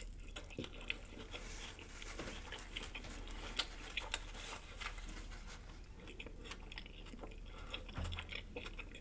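A person chewing food with the mouth close to the microphone: irregular wet smacks and small crunchy clicks.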